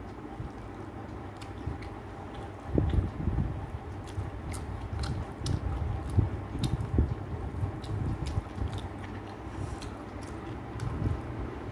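Close-up chewing and mouth sounds of a person eating rice and chicken curry by hand, starting in earnest about three seconds in, with scattered small clicks.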